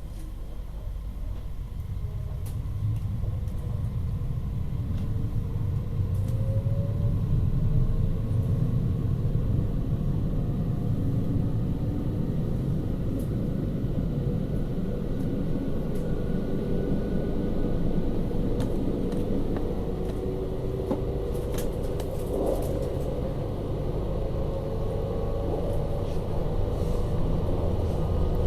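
Train running with a steady low rumble that swells over the first few seconds, with faint tones slowly rising in pitch as it picks up speed.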